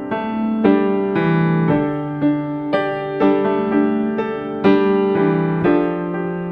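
Background piano music: gentle notes and chords struck about twice a second.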